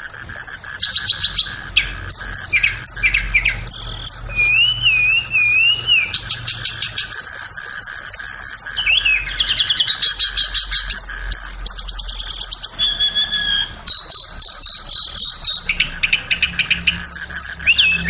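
Flowerpecker (tledekan) song recording: a rapid run of high, sharp chirps and fast trills, with a wavering whistled phrase about four seconds in, used as a masteran track to coax cage birds into song.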